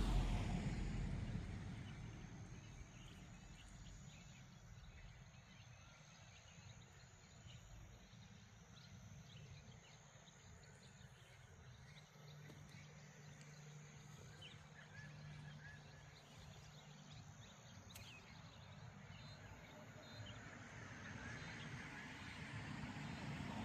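Quiet dawn outdoor ambience: faint, scattered bird chirps over a low rumble of wind that eases after the start and builds again near the end. A faint steady low hum sits underneath for about five seconds midway, and there is a single sharp click a little later.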